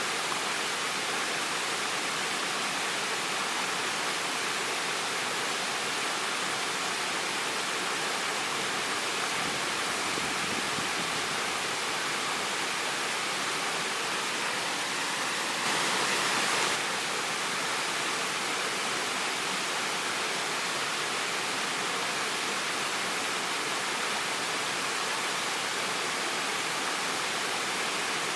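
Waterfall rushing steadily. About halfway through, it briefly grows slightly louder and brighter for about a second.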